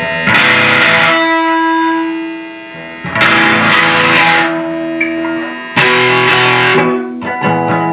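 Electric guitar played through distortion and effects, strumming three loud chords about every three seconds, each left ringing, then a few lighter picked notes near the end.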